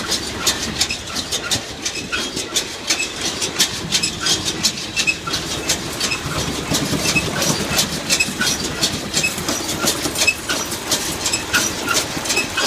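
Case International 8430 round baler running empty off a tractor's PTO, its pickup reel and chains clattering in a fast, even rhythm of clicks, several a second, over the tractor engine's steady hum.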